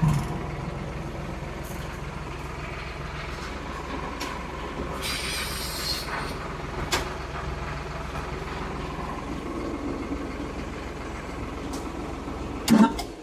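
Kioti DK65S tractor's diesel engine running steadily as the tractor is backed up onto a rollback bed. There is a brief hiss about five seconds in. Near the end a thump comes, and then the engine shuts off.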